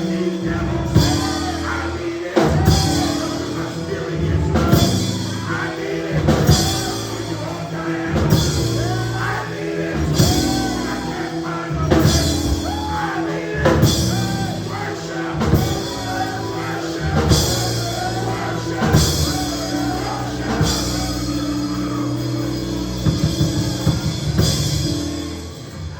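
Church band playing a slow gospel song: a singer over held low chords and a drum kit striking about every second and a half. The music drops away right at the end.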